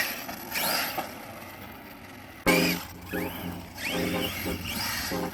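Arrma Outcast 6S RC monster truck's brushless motor whining in rising bursts as the throttle is punched, with tyre and drivetrain noise. A louder run of repeated throttle bursts starts suddenly about halfway through.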